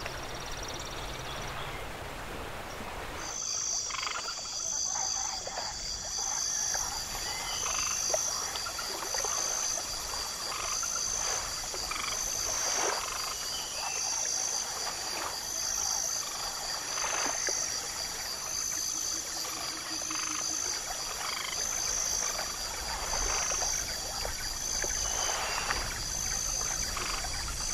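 Chorus of frogs and insects: a steady high-pitched trilling with a regular pulse, and scattered short croaks. It cuts in about three seconds in, replacing a steady rushing hiss.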